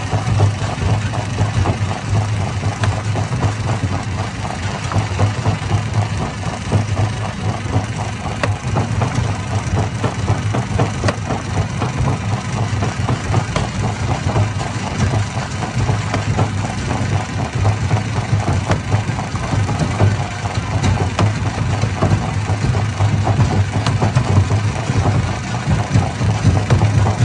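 Hammer stone crusher running: a loud, steady mechanical drone with a dense, continuous clatter over it.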